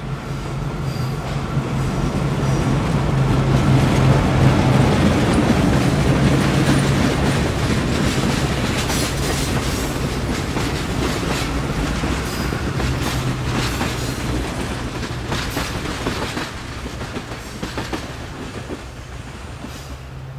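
A diesel passenger train passes behind a pair of EMD FP9A locomotives, with a steady low drone that is loudest about four seconds in. The passenger cars follow with the clickety-clack of wheels clicking over the rails, fading away near the end.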